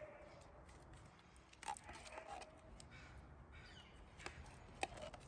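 Faint bird calls, twice, with a few light clicks over low background noise.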